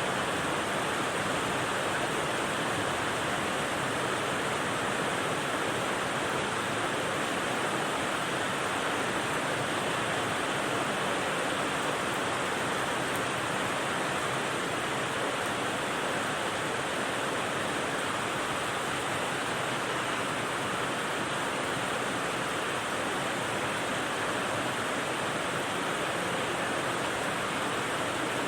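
Rain white noise: a steady, even hiss that does not change.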